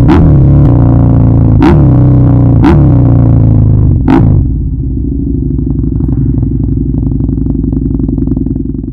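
Husqvarna Nuda 900R's parallel-twin engine through a Remus aftermarket exhaust, revved in several quick, sharp throttle blips whose pitch jumps and falls back. About four seconds in it settles to a steady idle for the rest.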